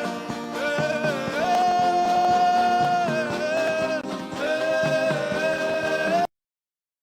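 Gospel worship music: a voice holds long sung notes that glide from one pitch to the next over instrumental accompaniment. It cuts off suddenly about six seconds in.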